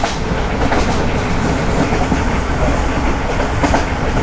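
Passenger train carriage running on the rails: a steady rumble with scattered clicks of the wheels over rail joints.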